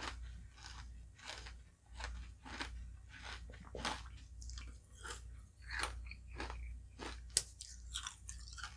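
Close-miked chewing of a mouthful of halo-halo (shaved ice with ube ice cream), with small irregular crunches about twice a second and one sharper crunch late on.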